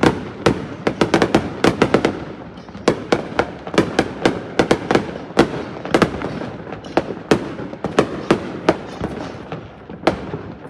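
Aerial fireworks going off in a dense barrage: irregular sharp bangs several times a second over continuous crackling.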